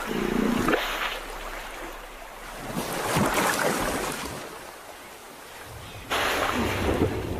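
Hippos moving through river water: water rushes and splashes in two swells, about three seconds in and again near the end, after a short low grunt at the start.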